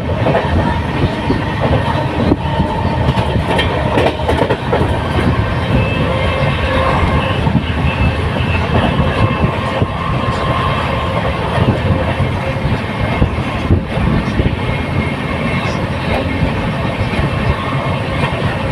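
A moving train on its track: a steady, loud running noise with faint high tones held now and then.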